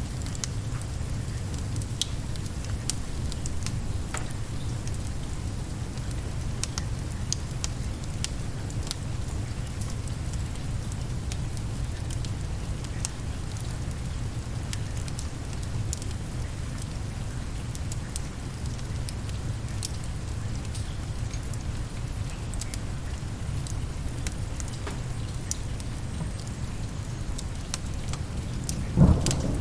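Steady rain with a low rumble under it, and scattered sharp crackles from a wood fire. Thunder breaks in suddenly near the end.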